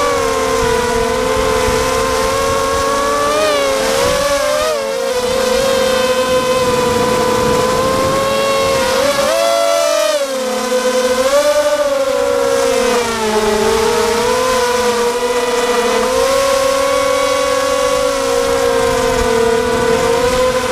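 Quadcopter motors and propellers giving a steady whine that wavers up and down in pitch as the throttle changes, briefly rising about nine seconds in. Strong wind rumbles on the microphone underneath.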